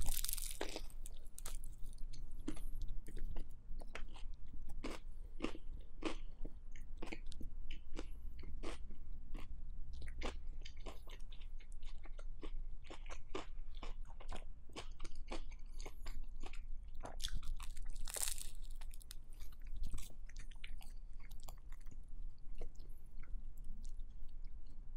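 Close-miked chewing of banh mi, the crisp baguette crust crunching in many irregular small cracks, with louder crunches right at the start and again about 18 seconds in.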